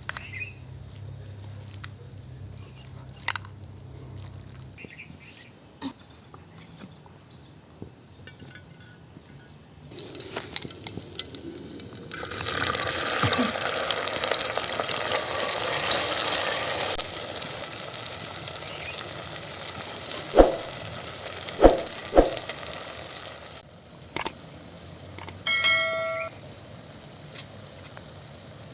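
Something hitting hot oil in a pan and sizzling, with a loud hiss from about ten seconds in that eases off after about thirteen seconds. Three sharp knocks of a utensil against the pan come near the middle, and a short metallic clang rings near the end.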